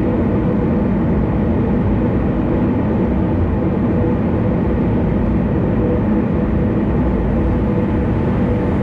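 Steady road noise of a car cruising on an expressway: an even, low rumble of tyres and engine, with a faint steady hum over it.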